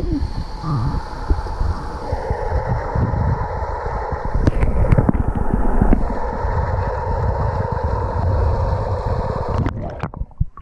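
Muffled rumble and churning of waterfall pool water picked up by a microphone held underwater, with scattered knocks from handling. It breaks off about a second before the end.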